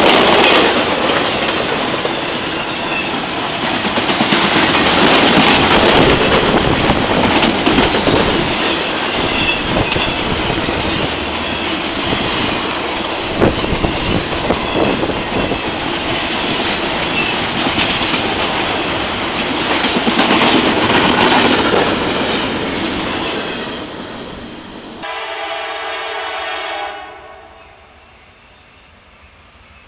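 Intermodal freight train passing close by, its cars rolling with a steady rail rumble and wheels clacking over the rail joints, dying away after about 23 seconds. About 25 seconds in, a locomotive horn sounds one blast of about two seconds, followed by a faint low rumble.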